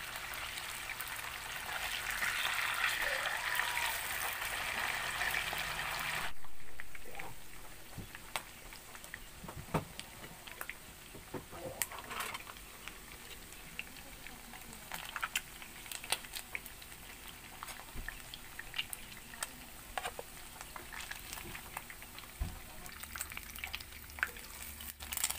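Oil sizzling around fish steaks frying in a pan, loud at first and dropping suddenly about six seconds in to a quieter sizzle. Scattered sharp clicks of utensils against the pan run through the quieter part.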